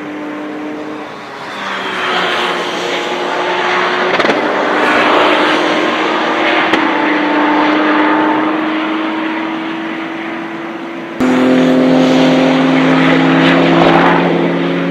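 Porsche 911 GT3 Cup race car's flat-six engine at high revs on track, its pitch climbing slowly as it accelerates. About eleven seconds in the sound switches abruptly to a louder, closer engine.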